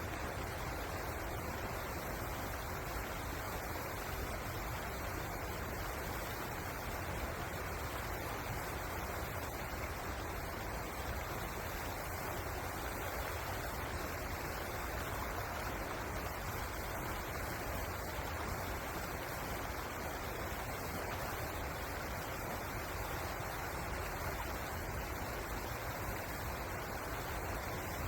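Steady rushing of flowing river water, an even noise with no distinct events, strongest in the low and middle range.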